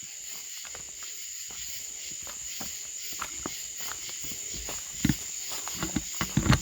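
A steady high-pitched chorus of crickets and other night insects, with scattered light clicks and a few louder knocks, about five seconds in and again near the end.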